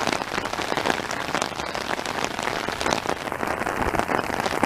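Heavy monsoon rain falling on desert ground and brush: a dense, steady patter of drops.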